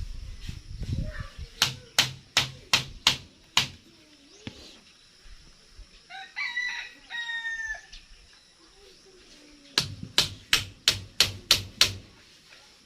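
Two runs of hammer blows, each six or seven sharp strikes about a third of a second apart, one a couple of seconds in and one near the end. A rooster crows once in between.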